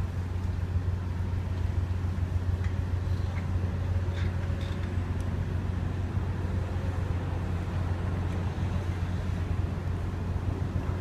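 A ship's engine drones steadily, a constant low hum with a few faint clicks over it.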